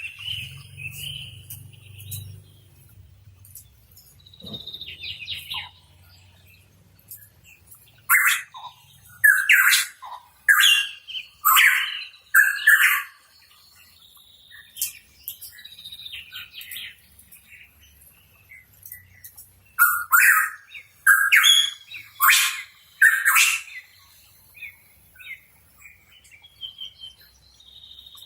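A pitohui calling in runs of short, loud, sweeping notes: one run about eight seconds in and another about twenty seconds in, with softer calls in between.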